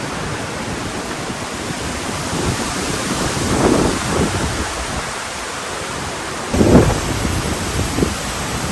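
Strong wind buffeting the microphone: a steady rush broken by louder gusts, the strongest about two-thirds of the way in.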